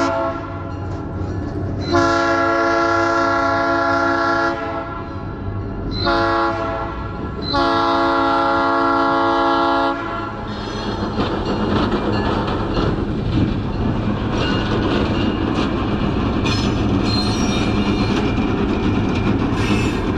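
Train horn sounding several-note blasts: the end of one long blast, then long, short, long, the pattern of the grade-crossing signal. The train then rolls past with a steady rumble and the clickety-clack of its wheels, with brief high wheel squeals near the end.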